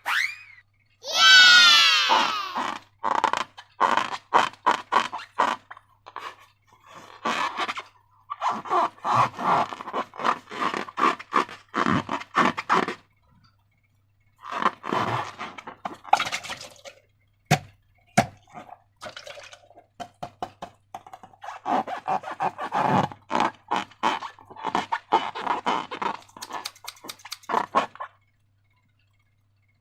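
Slime being squeezed and stretched by hand: bursts of sticky, wet crackling and clicking with short pauses between them. About a second in, a brief high squeal falls in pitch.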